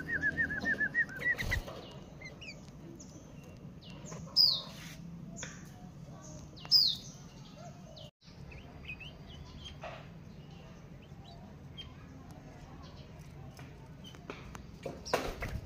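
Bulbuls calling in an aviary. A quick run of short notes comes in the first second or so, then loud, sharp falling chirps about four and seven seconds in, with scattered faint chirps and clicks between.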